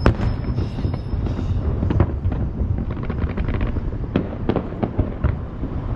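Aerial fireworks display: shells bursting in a run of loud bangs, with a dense crackle about three seconds in, over a continuous low rumble.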